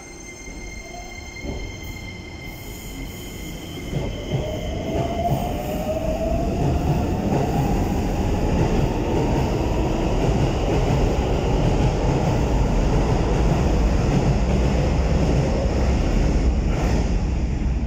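Keikyu New 1000 series electric train pulling out of the station. A rising motor whine comes in about four seconds in as it gathers speed, then the running noise of the cars and wheels grows loud as the train rolls past, easing off near the end.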